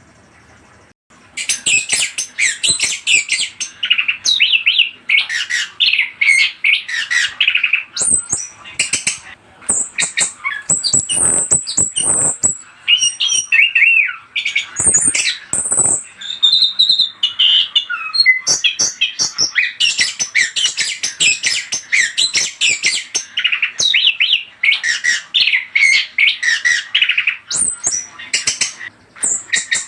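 Orange-headed thrush singing a fast, varied song of chirps, whistles and harsh squawky notes, with scarcely a break once it starts about a second in.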